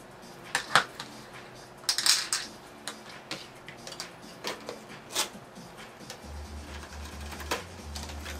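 Irregular clicks and clinks of small metal parts and tools being handled while a robot-sumo robot is taken apart, the sharpest about a second and two seconds in.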